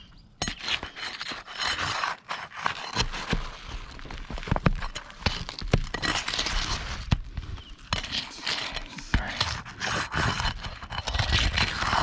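Asphalt roof shingles being lifted and worked loose: irregular scraping and cracking, with many sharp clicks and knocks as the shingles and their nails are pried at.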